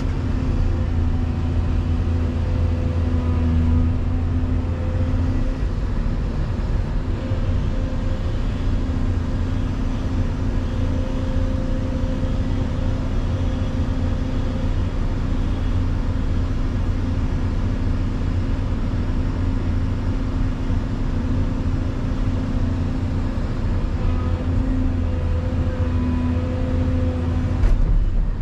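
Volvo EC220EL excavator running steadily under load, its engine and hydraulics holding a deep hum with pitched tones that come and go as it works. A single sharp knock near the end.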